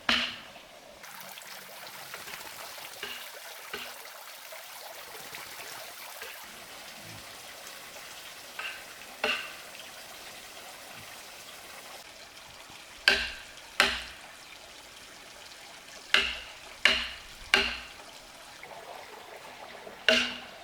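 Sharp, ringing knocks of something hard striking wood, in groups of two or three several seconds apart, over a steady hiss.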